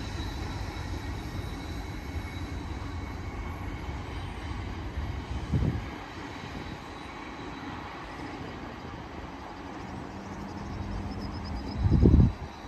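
Steady low rumble of distant vehicles. Two short low thuds come through it, one about halfway and a louder one near the end.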